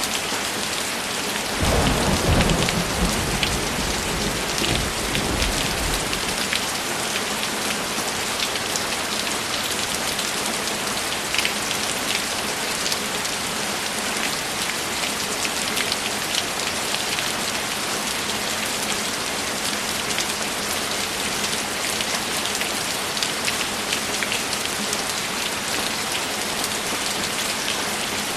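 Steady rainfall with individual drops ticking. About two seconds in, a low roll of thunder breaks in and fades out over the next few seconds.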